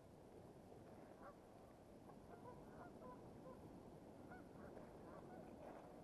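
Near silence with faint bird calls: a series of short calls scattered from about a second in, over a low steady background.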